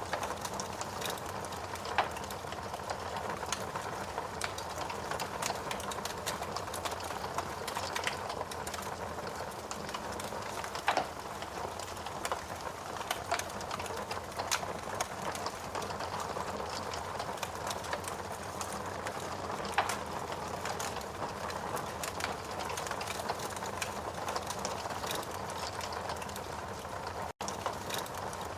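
Steady rain with a wood fire crackling, irregular sharp pops every second or so. The sound cuts out for an instant near the end.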